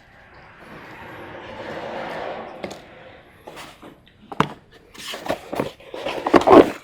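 Objects being handled and rummaged through: a rustle that swells and fades over the first few seconds, then a run of sharp knocks and clatters, the loudest just before the end.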